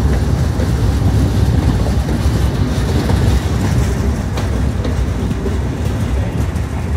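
Sundarban Express intercity passenger train running on the rails: a loud, steady rumble and rattle of its coaches.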